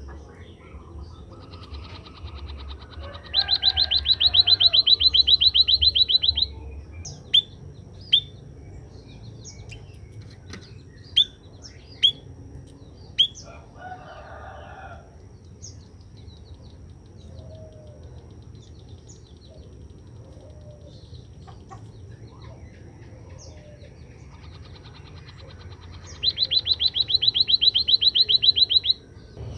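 White-headed munia (emprit kaji) singing: two rapid, high-pitched trills about three seconds each, near the start and near the end, with a few short sharp chirps in between.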